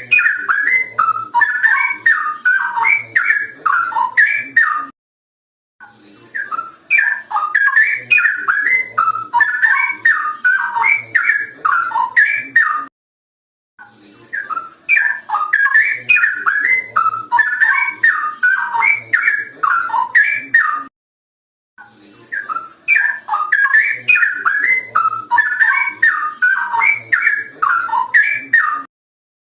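Straw-headed bulbul (cucak rowo) singing loudly and continuously: rich, fast, bubbling whistled phrases in stretches of about seven seconds, each cut by a second of silence.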